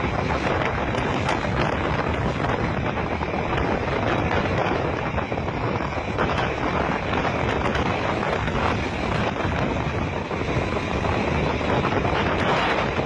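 Strong wind buffeting the microphone over the steady rush of a rough sea around a ship.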